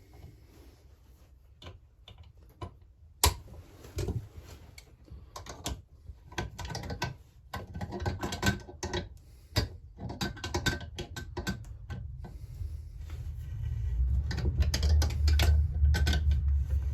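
Metal-on-metal clicks and clinks of hand tools working a homemade threaded bearing puller on a chainsaw crankcase, sparse at first and busier from about six seconds in. A low rumble builds over the last few seconds.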